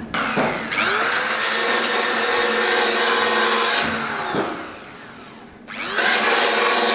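Electric belt sander switched on and spinning up to a steady high whine. It winds down about four seconds in and is started again near the end.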